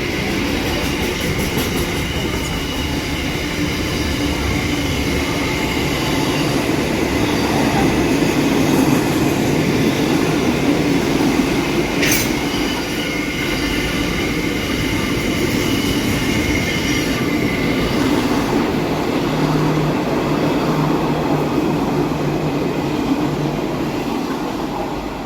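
Long freight train rolling past at close range: a steady rumble of wheels on rail, thin high squealing from the wheels, and a single sharp clank about halfway. The noise eases slightly near the end.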